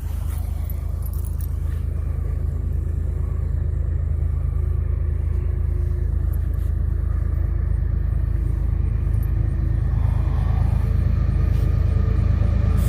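Approaching freight train's diesel locomotives: a low, steady rumble that grows gradually louder.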